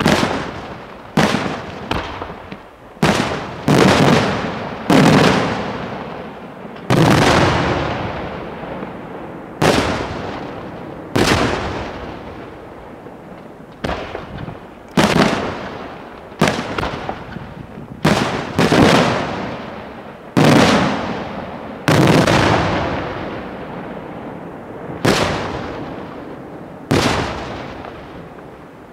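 Aerial firework shells bursting one after another, about one every one to two seconds. Each is a loud bang followed by a long echoing rumble that dies away.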